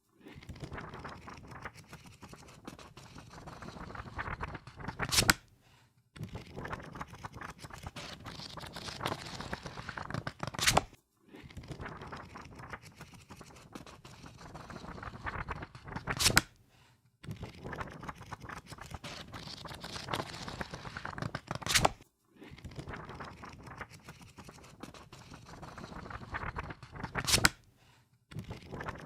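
Pages of a book riffled rapidly, a fast fluttering run of page flicks that builds over about five seconds and ends in a sharp snap. A short pause follows, and the riffle is repeated five times.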